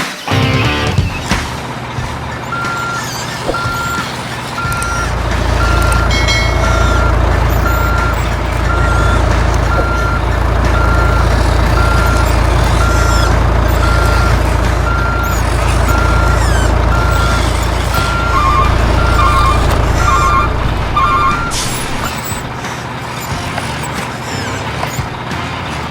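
Truck reversing beeper sounding about once a second over a low, steady diesel-style engine rumble, as from an RC dump truck's sound unit. Near the end a second, lower beep joins it.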